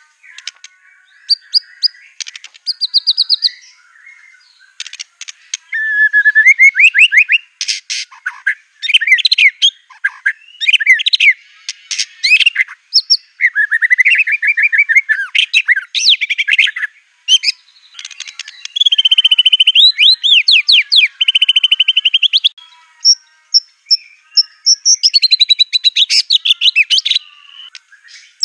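White-rumped shama (murai batu) singing hard: a run of loud, varied phrases of fast repeated notes and trills, broken by short pauses. The song is packed with imitations of other birds' calls, such as canary, cililin and cucak cungkok.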